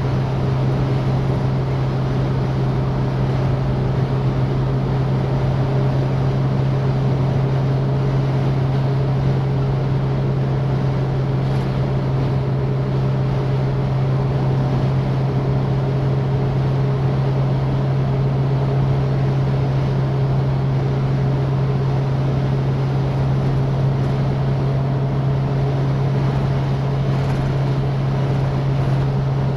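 Citroen DS four-cylinder engine and road noise while driving at a steady speed: an even, unchanging low drone with a constant rushing hiss over it.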